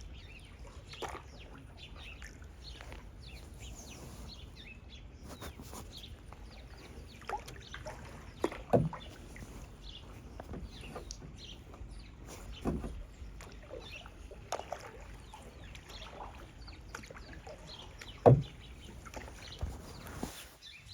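Kayak being paddled: water splashing and dripping from the paddle, with louder knocks about 9, 13 and 18 seconds in. Birds call in the background.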